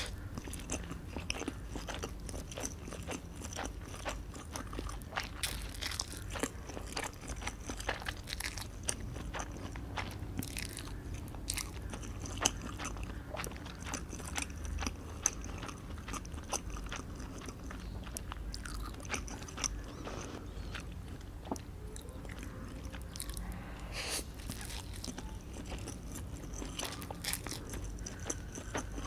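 Close-miked eating: a person biting and chewing food, with crunchy bites and wet chewing clicks packed close together, a couple of sharper crunches near the middle.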